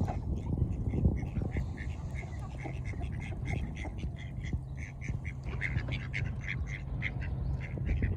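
Ducks quacking in many short, rapid calls, one after another.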